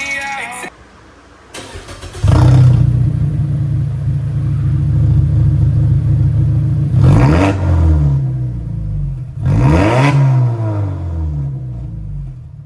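Mazda 3's engine and exhaust running, coming in loud about two seconds in, idling steadily and blipped twice, each rev rising and falling back.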